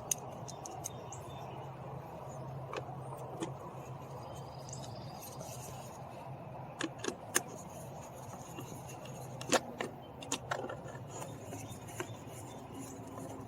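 Scattered small clicks and rattles of hand work on a car door: plastic switch bezel and small fasteners being handled and fitted, a few louder clicks in the middle, over a low steady hum.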